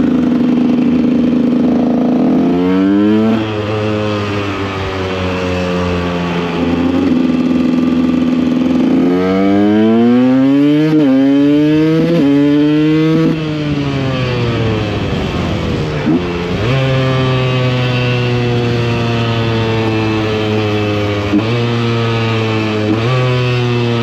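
KTM EXC 125 two-stroke dirt bike engine running under the rider, revving up through the gears with the pitch climbing and dropping at each shift. Around the middle it winds down to a low note, then picks up again and holds a steadier cruise.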